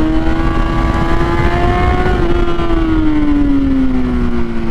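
Kawasaki Z800's inline-four engine running at high revs on a held throttle through a long corner, its note rising slightly and then easing down over the second half, with heavy wind rush on the microphone.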